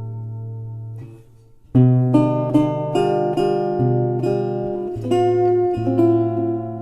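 Acoustic guitar music: a held chord fades out, then after a short pause a new passage of picked notes and chords starts a little under two seconds in.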